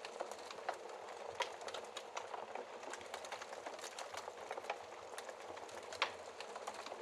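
Fire crackling in a fireplace: a steady hiss with frequent small pops, and a louder snap about six seconds in.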